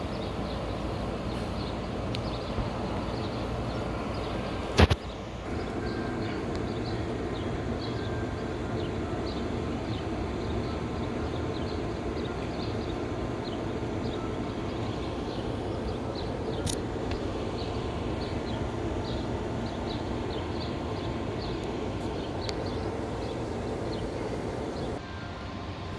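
Steady outdoor rumble and hiss, with one sharp click about five seconds in.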